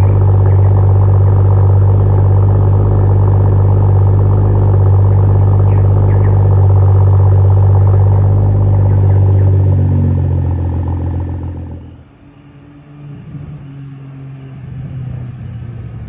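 Straight-piped exhaust of a BMW M340i's turbocharged 3.0-litre inline-six, running with a loud, steady low drone. Near the end the drone fades and drops away, leaving a much quieter rumble.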